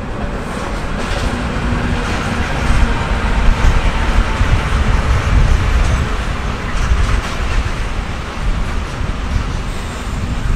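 A train moving through the station: a rumble with wheel hiss that swells in the middle and eases near the end.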